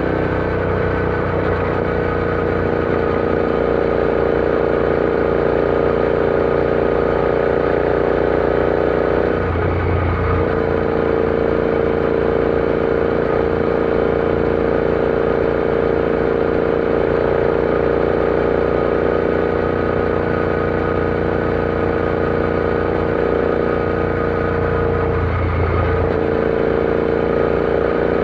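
Royal Enfield Interceptor 650 parallel-twin engine running steadily under way at a constant speed. Its note breaks briefly twice, about ten seconds in and again near the end.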